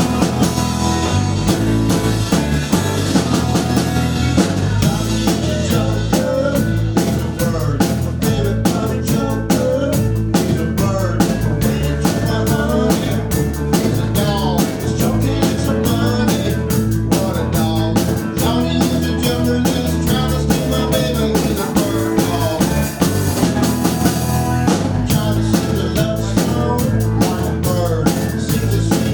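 Rock and roll band playing: a drum kit keeps a steady beat with rimshots over a moving bass line.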